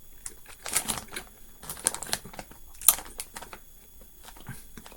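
Irregular crinkling and clicks from handling a plastic bag of gummy candies, with chewing of a gummy. The sharpest crackle comes about three seconds in.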